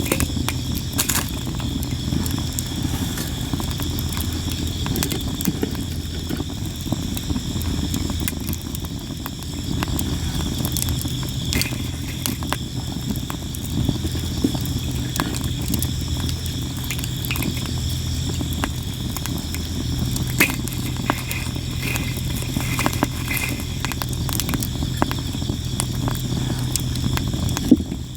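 Sawara (Japanese cypress) wood campfire crackling and popping without pause, sharp pops scattered through a steady low rumble of the burning fire. Insects chirp steadily in the background.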